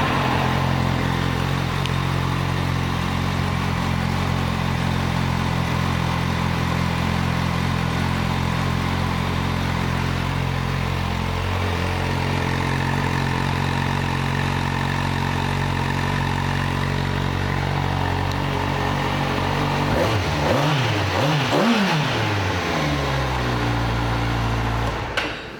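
Kawasaki Z800's inline-four engine idling steadily. About twenty seconds in it is revved up and down a few times, then settles back to idle and cuts off near the end.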